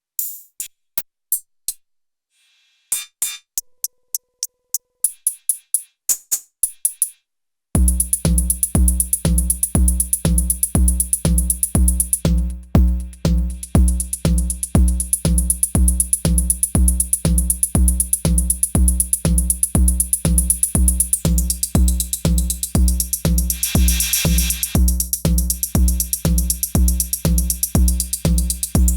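Elektron Syntakt drum machine playing synthesized drums. For the first several seconds there are sparse single hits with gaps between them. From about eight seconds in a steady, deep kick-drum beat runs at about two hits a second, with hi-hat-like hits above it, and a noisy swell rises and falls near the end.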